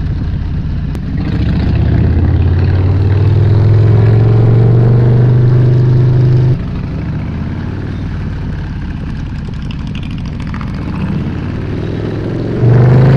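Motorcycle engine running under way, its pitch rising slowly as it pulls. About six and a half seconds in it drops suddenly to a quieter, lower rumble, then comes back loud and rising again near the end.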